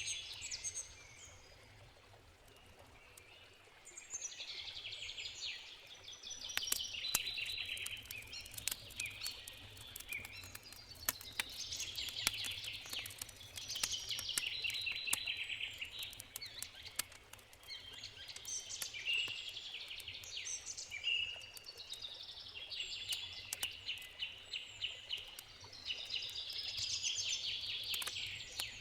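A songbird singing a short trilled phrase again and again, every two to three seconds, over the scattered crackles and pops of a wood campfire.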